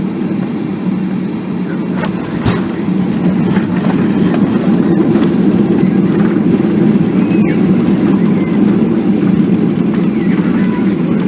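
Boeing airliner cabin noise: the steady low rush of engines and airflow during the approach, getting slightly louder a few seconds in, with two sharp clicks about two seconds in.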